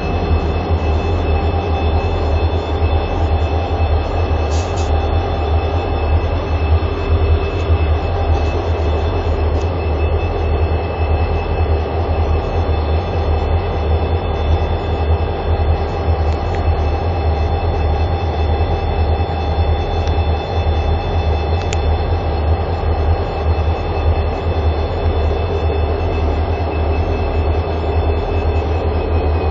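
Diesel-electric freight locomotives running at a steady engine speed: a deep, pulsing engine rumble with steady higher whines over it.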